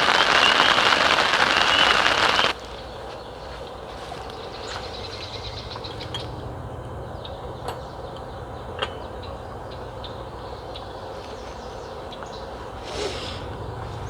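Heavy rain falling steadily, with a wavering high tone running through it, cut off sharply about two and a half seconds in. Then quiet morning air with scattered short bird chirps.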